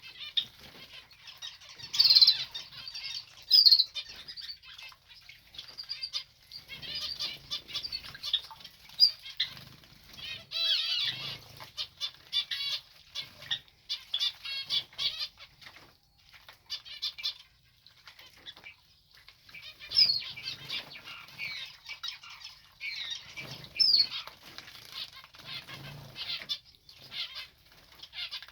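Small cage birds bathing, fluttering their wings in the water in repeated short bursts of splashing and flapping, with a few brief sharp chirps.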